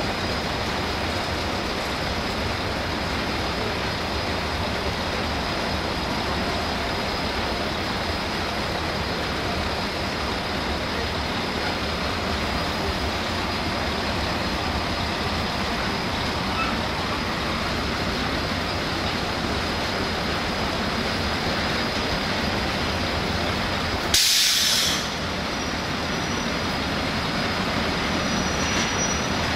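Container freight train's wagons rolling past steadily, a continuous noise of wheels on rails. A brief loud hiss near the end.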